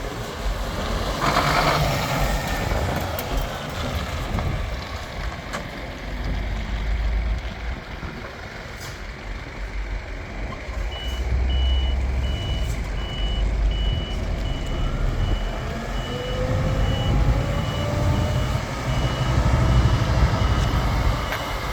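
Scania P320 truck's diesel engine running as it manoeuvres, with a short air hiss near the start. About halfway through, its reversing alarm starts beeping steadily, and the engine note rises and falls.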